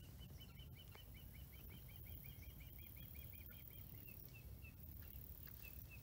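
Faint bird song: a quick run of repeated two-note chirps, about four or five a second, that slows to a few spaced single notes in the second half, over a low steady rumble.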